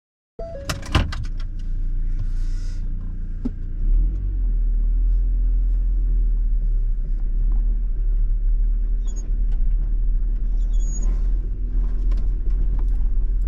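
A vehicle engine running with a steady low rumble, after a few sharp clicks at the start; it grows louder about four seconds in.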